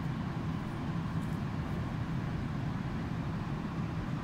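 Steady low rumble of a passenger train alongside the platform.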